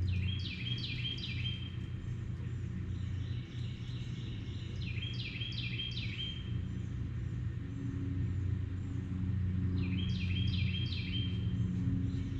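A songbird singing the same short phrase of quick down-slurred notes three times, about every five seconds, over a steady low rumble.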